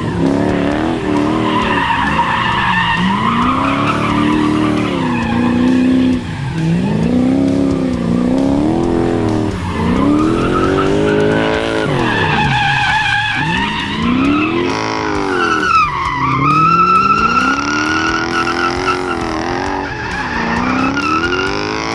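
Lexus 1UZ V8 in a Mazda B2200 drift truck revving up and down over and over while drifting, with the rear tyres squealing.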